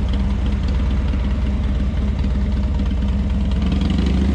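Cruiser motorcycle engine idling steadily.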